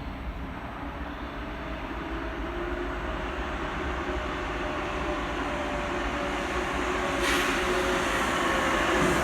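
Train approaching and passing, growing steadily louder, with a steady motor hum. A sudden rush of noise comes in about seven seconds in.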